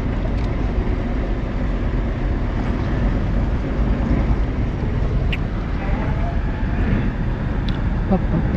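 Steady low rumble of a four-wheel drive creeping along, heard from inside its cabin as it rolls into the vehicle deck of a ferry.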